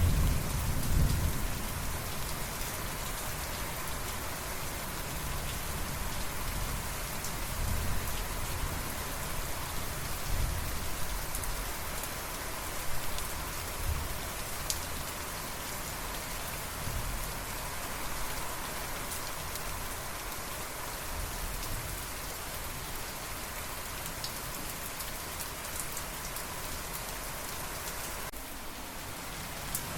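Steady rain falling on surfaces, with low rolls of thunder that are strongest just at the start and swell a few more times in the first half. The rain thins out briefly just before the end.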